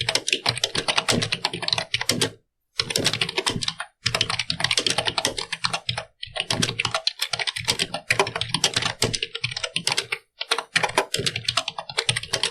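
Computer keyboard being typed on in fast, continuous runs of keystrokes, broken by three brief pauses.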